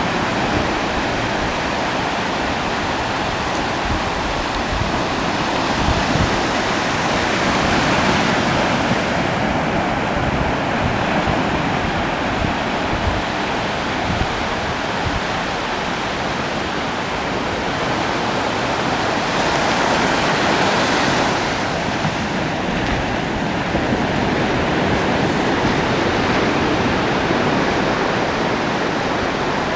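Ocean waves breaking on a beach: a continuous wash of surf that swells as a wave breaks about eight seconds in and again around twenty seconds.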